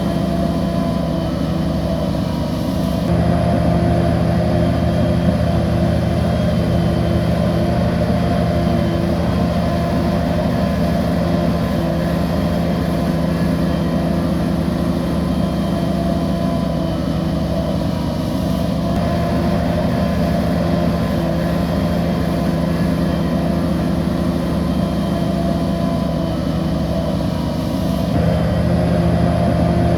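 Bulldozer's diesel engine running steadily under working load, getting louder about three seconds in and again near the end.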